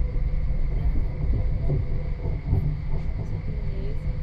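Copenhagen S-train carriage running at speed, heard from inside: a steady low rumble of the wheels on the rails.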